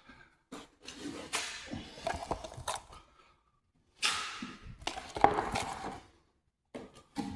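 Drywall knife scraping joint compound across drywall in two long strokes, followed by a few light knocks near the end.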